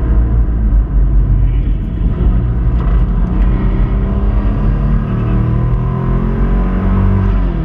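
Subaru Impreza's flat-four engine running hard, heard from inside the cabin, with the revs shifting up and down. The engine has a failing connecting-rod bearing, which makes a knocking noise.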